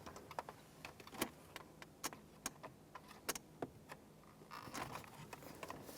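Light, irregular plastic clicks and taps of dashboard trim being handled as the clips on a radio bezel are lined up and pushed in, with a short rubbing scrape a little after four seconds in.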